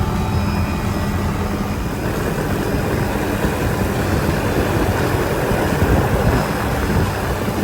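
Helicopter in flight heard from inside the open cabin: a steady engine and rotor drone under a dense rush of wind.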